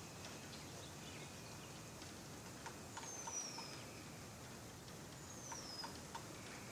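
A bird calling twice, about two and a half seconds apart: each call is a high, thin whistle sliding downward, with a few soft ticks around it. A steady faint outdoor hiss lies underneath.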